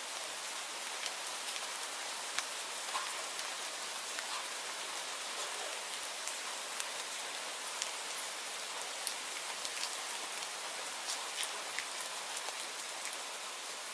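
Steady rainfall, an even hiss with scattered individual drops ticking sharply on a nearby surface.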